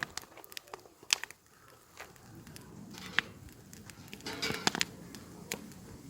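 Wood campfire burning, crackling with irregular sharp pops over a soft hiss; one loud pop about a second in, another near the middle, and a brief busier rush of crackling a little later.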